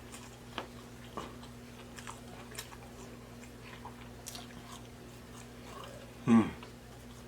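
Close-miked chewing and biting of a stacked burger, fish and chicken sandwich, with soft scattered mouth clicks over a steady low hum. About six seconds in, a short, loud throat sound drops steeply in pitch.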